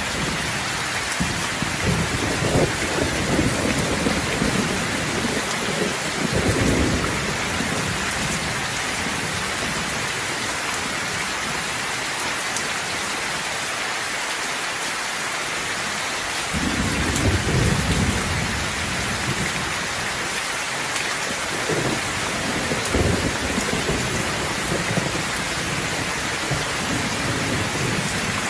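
Steady heavy rain hissing. Thunder rumbles through the first several seconds, drops away, then comes back and rumbles on from a little past halfway to near the end.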